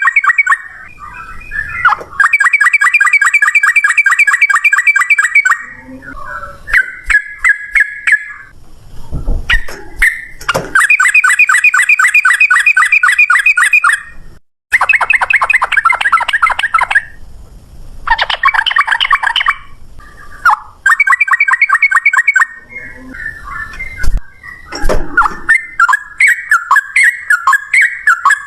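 Yellow-vented bulbul (trucukan) singing loud, fast runs of rapidly repeated notes, each run lasting a few seconds with short breaks between them: the rolling 'ropel' song. A few dull low thuds are heard between runs.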